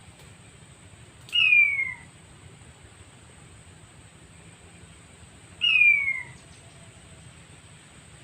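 Recorded call of a male blue-breasted quail (puyuh batu) played as a trap lure: a loud descending whistle, twice, about four seconds apart.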